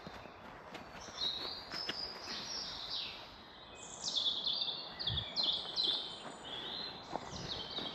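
Woodland songbirds singing, several overlapping high phrases, the loudest a run of notes stepping down in pitch about four to six seconds in.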